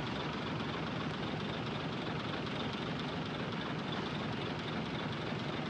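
Heavy earthmoving machinery's diesel engine running steadily, with no breaks or knocks.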